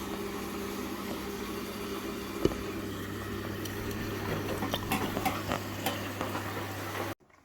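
Indesit 9 kg washing machine filling with water through its open inlet solenoid valves: a steady hiss of water running into the drum over a low hum, with small splashes and clicks, cutting off suddenly near the end as the fill stops.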